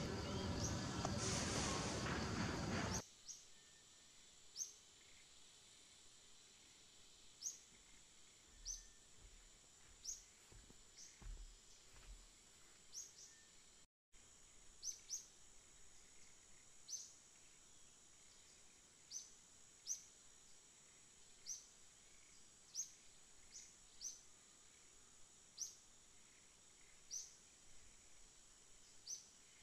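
Faint outdoor ambience: a bird repeating short, high, rising chirps about once every second or two over a steady high-pitched insect drone. It follows a louder stretch of broad noise that cuts off abruptly about three seconds in.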